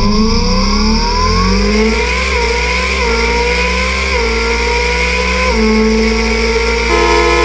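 Simulated race-car engine sound from the Hover Engine app, revving up and shifting through gears. The pitch climbs, then steps down at each shift, about four times.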